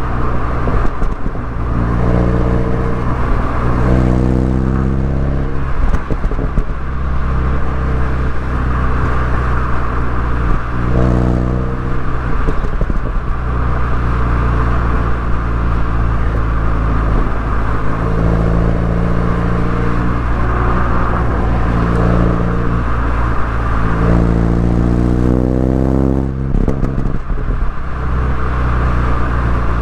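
BMW MINI Cooper S engine and exhaust under way, the note holding steady for stretches and then changing pitch as the revs rise and fall, notably about a third of the way in and again near the end.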